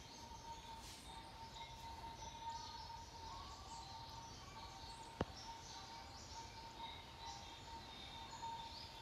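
Faint outdoor ambience with small birds chirping, a thin steady high tone underneath, and a single sharp click about five seconds in.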